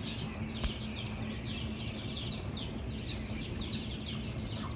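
Birds chirping busily: many short, quick, falling chirps, several a second, over a steady low hum.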